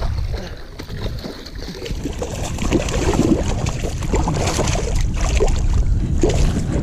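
Strong wind buffeting the microphone, a steady low rumble, with a run of short scratchy noises through the middle and latter part.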